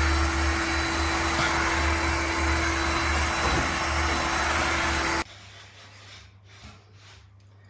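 Shark HydroVac MessMaster cordless wet-dry vacuum mop running steadily with a constant hum and whine, then cutting off abruptly about five seconds in.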